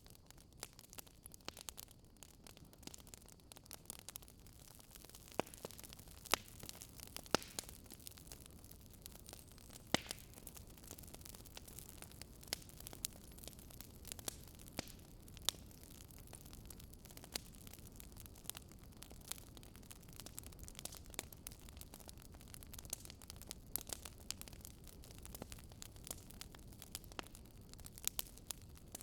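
Wood fire burning in a fireplace, crackling with irregular sharp pops and snaps over a low steady hiss and rumble; a few louder pops come in the first ten seconds or so.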